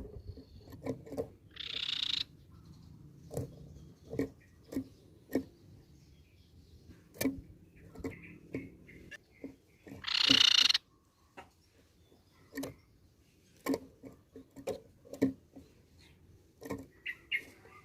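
Tepus pipi perak (crescent-chested babbler) calling: two loud, harsh, rasping chatters, one about a second and a half in and another about ten seconds in. Short sharp ticks come at irregular intervals between them.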